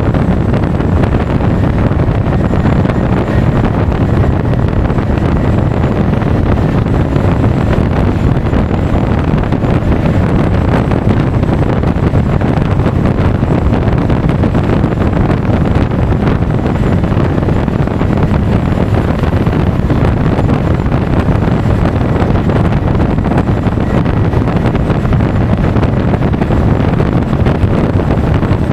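Steady wind rush on an action camera's microphone while riding a Honda Forza 350 scooter at speed, mixed with the scooter's running and road noise.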